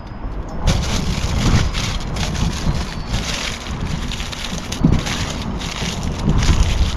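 Wood bonfire crackling: a dense, continuous run of crackles and rustles over a low rumble.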